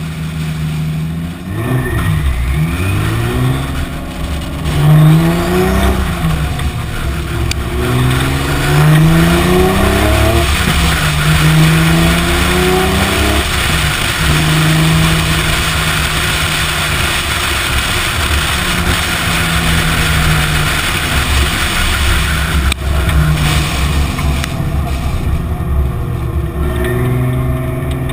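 Toyota Supra's 2JZ straight-six engine revving hard while drifting, its pitch climbing and falling in a run of quick sweeps, then held high through a long stretch of wheelspin under a steady rush of tyre and wind noise. The revs drop away near the end.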